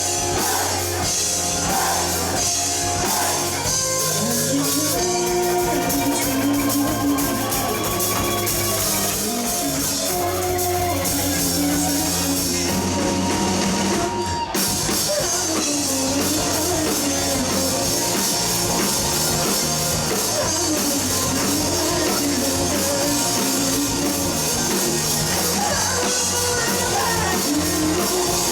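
Live rock band of electric guitars, bass guitar and drum kit playing a song at full, steady volume.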